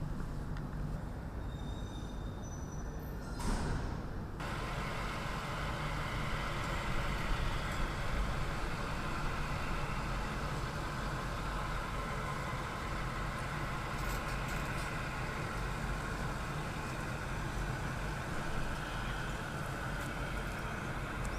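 Steady engine noise, with a short, louder rush of noise about three and a half seconds in.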